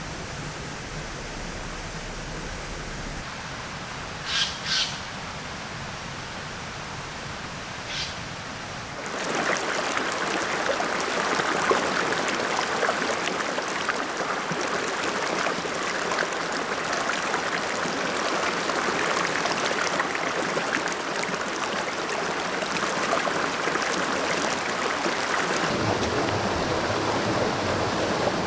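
Mountain stream water rushing steadily, becoming louder and fuller about nine seconds in. Early on a bird calls twice in quick succession, then once more.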